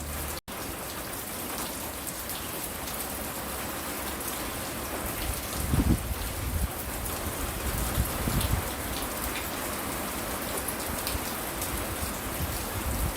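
Steady rain falling, with the patter of individual drops and a few brief low rumbles about halfway through. A split-second gap in the sound comes just after the start.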